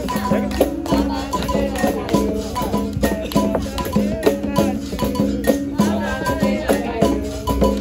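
Capoeira roda music: berimbau notes alternating between two pitches with the shaker rattle of the caxixi, hand percussion striking a steady rhythm, and voices singing.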